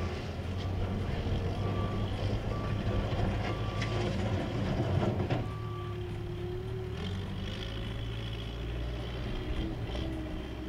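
A repeating high electronic beep, like a vehicle's reversing alarm, over a steady low engine rumble; the beeping stops about five and a half seconds in.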